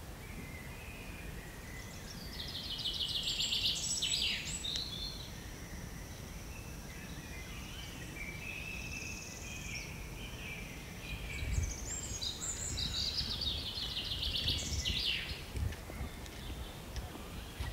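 Small birds singing: two long, fast trilling phrases, a few seconds in and again past the middle, with a thin steady high note between them, over a low steady outdoor background noise.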